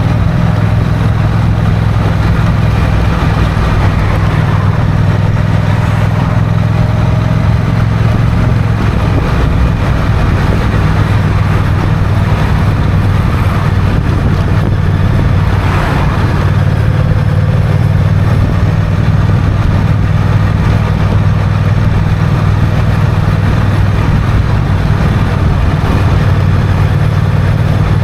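Honda CMX1100 Rebel's parallel-twin engine running steadily while the bike is ridden at an even pace, its note shifting slightly about eight seconds in, with wind and road noise over it.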